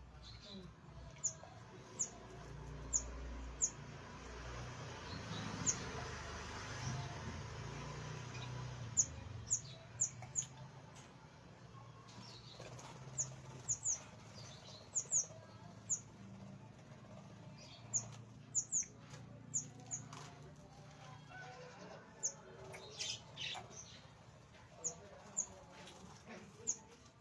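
Small aviary birds chirping: many short, high chirps, singly and in quick pairs, scattered throughout, with a stretch of steady hissy noise between about 4 and 10 seconds in.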